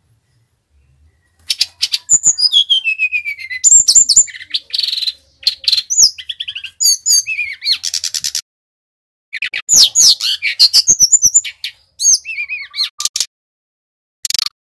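Sikatan rimba dada coklat (SRDC, a jungle flycatcher) singing loudly in fast, varied phrases of chirps, rapid trills and falling whistles. The song starts about a second and a half in, pauses briefly near the middle and ends with a short burst near the end.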